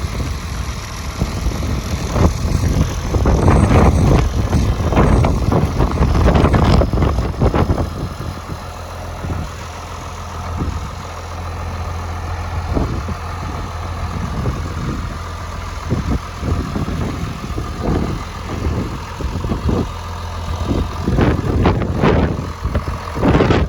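International Harvester 966 tractor engine running at a steady idle, with louder, rougher stretches of noise in the first few seconds and again near the end.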